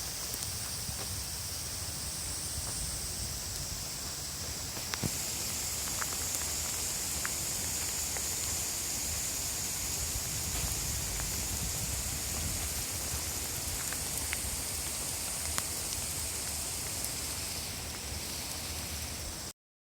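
Heavy downpour falling steadily, a dense hiss of rain with scattered single drop taps. The sound cuts off abruptly just before the end.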